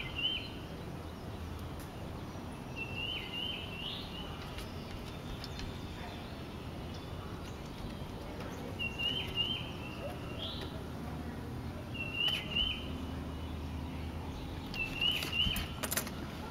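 A songbird singing the same short phrase about every three seconds, five times, over steady outdoor background noise. A few sharp clicks come near the end.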